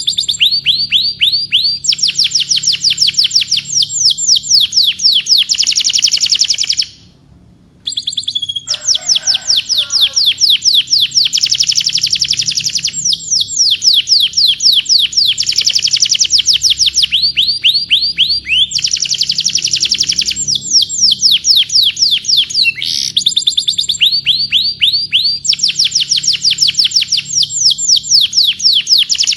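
Domestic canary singing: long rolling trills of rapid repeated notes, each sweeping downward in pitch, the tempo changing from one trill to the next, with a brief pause about seven seconds in.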